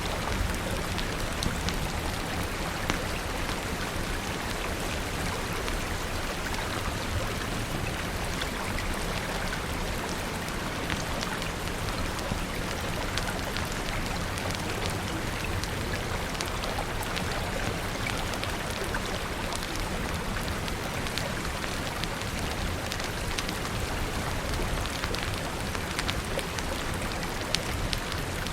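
Steady rain falling, an even hiss dotted with many small sharp ticks, over a steady low rumble.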